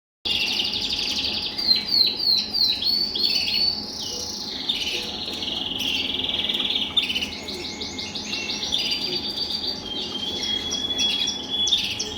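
Red factor colour canaries singing: a continuous stream of rapid rolling trills and quick falling sweeps, starting abruptly just after the beginning.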